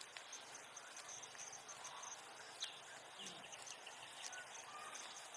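Faint, steady trilling of insects in a fast pulsing rhythm, with a few short high chirps about two and a half seconds in.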